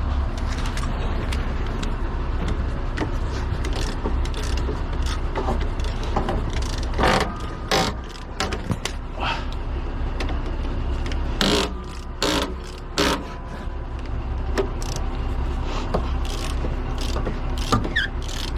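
A vehicle engine running steadily, with sharp metallic clanks now and then, a few of them ringing briefly, loudest about seven seconds in and again around twelve seconds.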